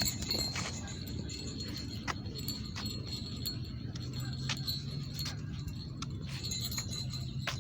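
Footsteps of a person walking, sharp irregular clicks about one or two a second, over a steady faint high tone and low outdoor rumble.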